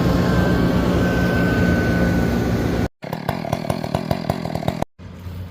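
Loud, steady running of gas-engine tree-work machinery. After an abrupt cut about three seconds in comes a short, rougher stretch of rapid knocking and crackling, typical of wood being cut or fed through. Near the end it gives way to a quieter steady engine hum.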